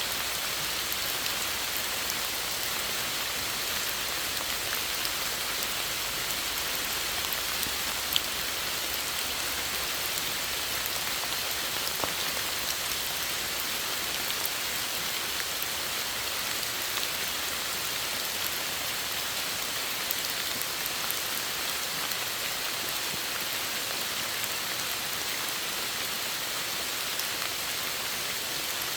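Steady rain falling, an even hiss with the odd louder drop tapping close by, one about eight seconds in.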